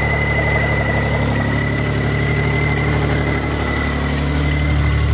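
A 1990 Geo Metro's 1.0-litre three-cylinder engine idling steadily shortly after a cold start, with a thin high whine alongside that fades toward the end.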